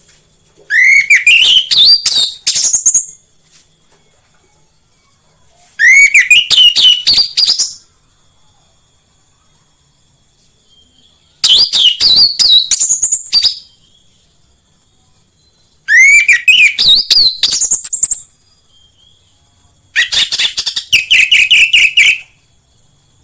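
Orange-headed thrush singing: five loud song phrases of about two seconds each, a few seconds apart, each a quick run of rising whistled notes, the last ending in a buzzy trill.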